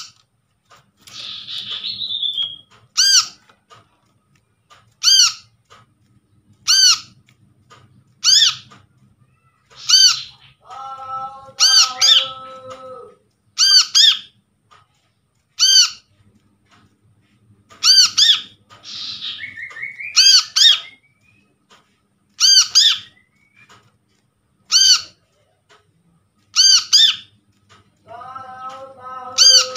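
Brown-throated sunbird (kolibri kelapa) calling: sharp, clipped call notes repeated about every one and a half to two seconds, with a couple of quick twittering phrases. Twice there is a longer, lower, buzzy call.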